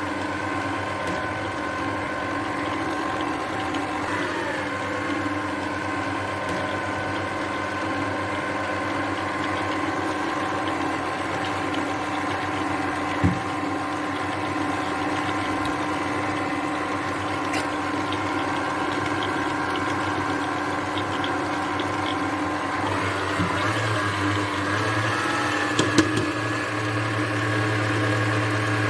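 Electric mixer whipping eggs at high speed to double their volume, a steady motor whine whose pitch shifts a little about four seconds in and again near the end. A couple of sharp knocks, the beaters striking the bowl.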